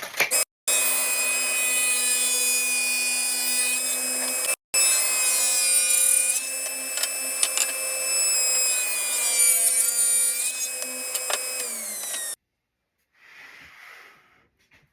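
Electric saw cutting wood: the motor runs with a steady whine over the cutting noise, briefly drops out once, then its pitch falls as it winds down and the sound cuts off abruptly.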